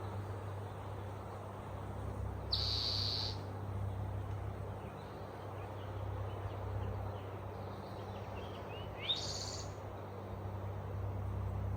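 Wild birds calling in a forest: a clear high held note about three seconds in and a quick rising call near nine seconds, with faint chirps between, over a steady low hum and outdoor background noise.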